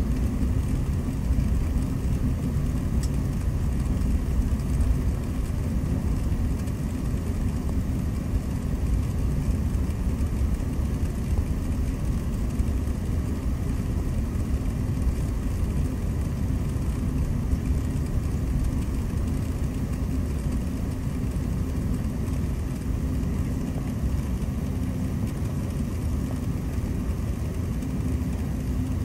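Steady low rumble inside a jet airliner's cabin, engines running at low power before take-off, with a faint even hiss of cabin air over it.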